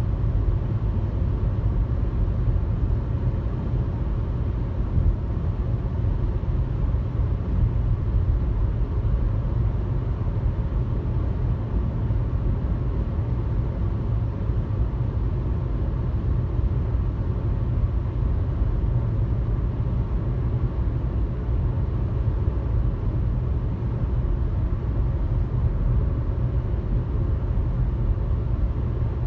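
Steady low road and engine rumble of a car cruising on a highway, heard from inside the cabin, with tyre noise and no change in speed.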